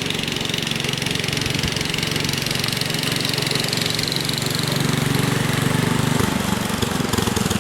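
An engine running steadily, its low hum changing about six seconds in.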